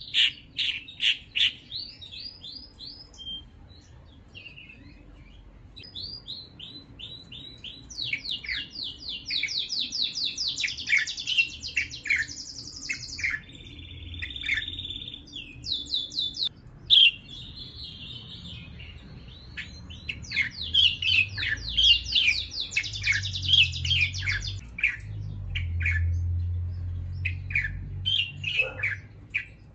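A small bird singing: fast runs of repeated sharp chirps and trills, with a short buzzy phrase about halfway through. A low rumble sits underneath in the second half.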